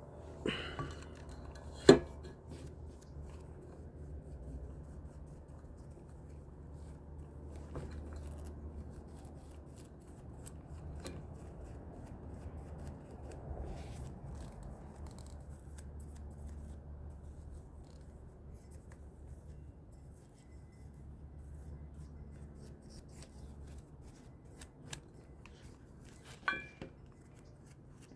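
Light handling of fan parts on a bench: faint rubbing and scraping, with sharp clicks or knocks twice near the start and once near the end, over a low steady hum.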